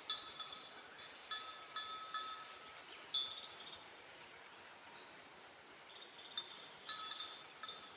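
Small metal bells clinking and ringing in irregular clusters of strikes, the same few pitches each time. They fall quiet through the middle and start again near the end.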